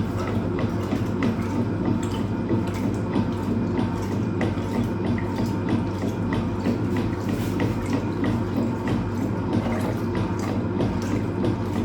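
Hoover Automatic 820 top-loading washing machine working through a full cold load: a steady hum under a wash of water noise, with light ticks recurring at an even pace.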